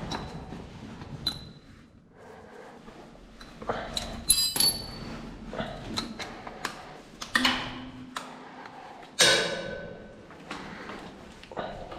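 Metal tools and parts knocking and clinking during repair work on an engine-driven pump, with a few ringing metallic strikes; the loudest comes about nine seconds in and rings out for about a second.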